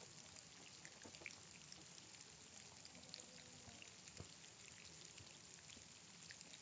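Light rain falling: a faint steady hiss with scattered drops ticking irregularly.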